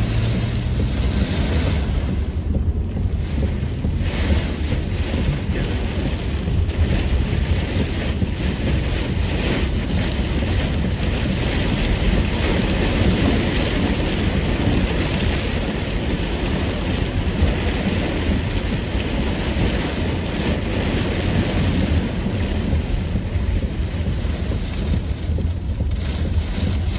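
Torrential rain pouring down in gusty wind, with the wind buffeting the microphone in a steady low rumble under the hiss of the rain.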